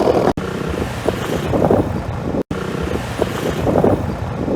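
Suzuki Skydrive 125 motorcycle running on the road, with wind buffeting the microphone. The sound drops out twice, briefly.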